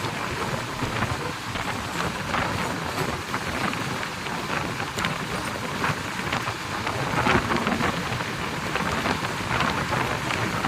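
Express passenger train running at speed: a steady, loud rushing roar with irregular clicks and rattles from the wheels on the rails.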